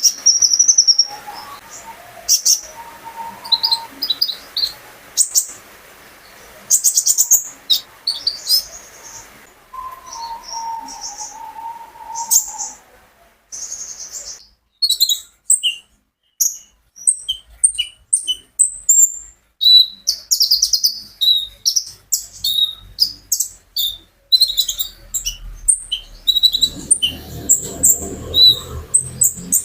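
A caged konin songbird singing a busy song of rapid high chirps, twitters and trills. Longer whistled notes run under it in the first half. The song pauses briefly past the middle, then returns in dense bursts of chirping toward the end.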